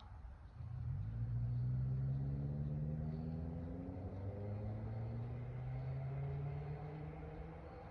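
Toyota Tacoma 2.7-litre four-cylinder's exhaust note through a Flowmaster 50 Series Delta Flow muffler, pulling under acceleration. It comes in about half a second in, and its pitch climbs slowly.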